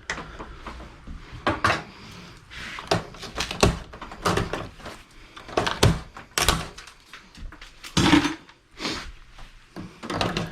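Irregular knocks, clatters and short scrapes of an old desktop computer's metal and plastic case being handled and pried at on a table while it is taken apart.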